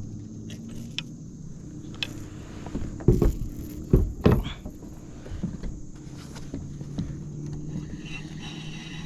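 A few loud knocks and thumps on a kayak, bunched together about three to four and a half seconds in, over a low steady hum.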